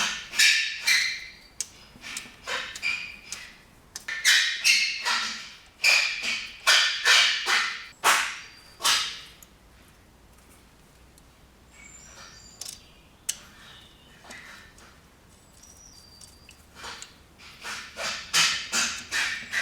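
Hands-on work fitting fuel injectors with new seals into the fuel rail: quick runs of short, sharp noises, quieter for several seconds in the middle.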